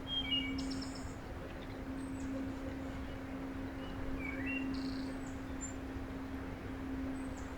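Small songbirds giving a few short chirps and high buzzy calls, over a steady low hum.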